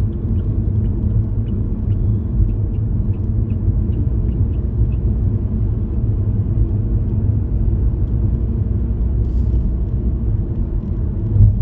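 Steady low rumble of a car driving, the engine and road noise heard from inside the cabin, with faint light ticks during the first few seconds.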